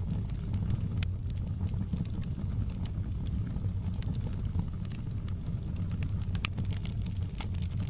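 Crackling fireplace: a steady low rumble of burning wood with frequent irregular sharp pops and crackles.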